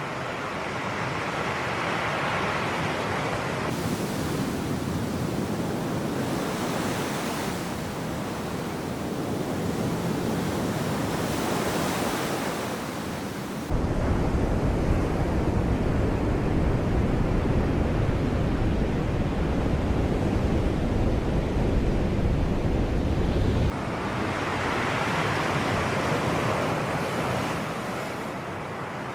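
Sea waves washing in and breaking, in slow surges of noise. About halfway through, a deep low rumble cuts in suddenly and stops just as suddenly some ten seconds later.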